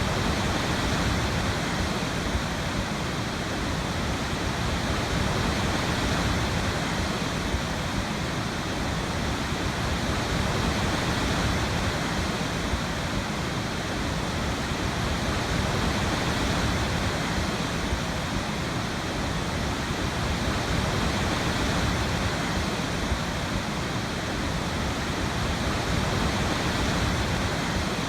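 Waterfall: water falling and splashing as a steady, even rush with no breaks.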